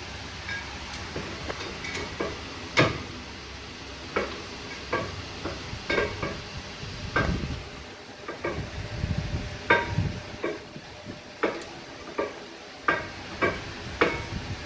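Irregular metallic clinks and taps, some ringing briefly, of tools and metal parts being handled during brake work, over a steady background hum.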